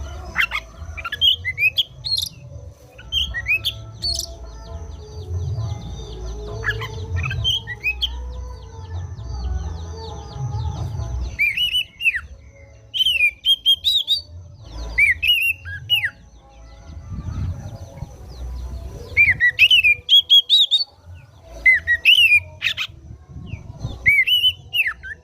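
Oriental magpie-robin (kacer) singing a string of loud, varied whistled phrases that sweep up and down in pitch. The phrases come thicker and louder from about halfway on. A steady low rumble runs underneath.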